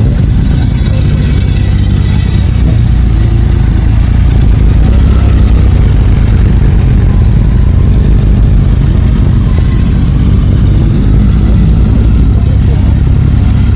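Motorcycle engines running, a steady low rumble of many bikes with some revving.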